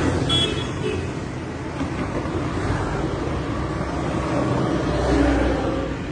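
Steady rumble of vehicle noise, swelling a little near the end.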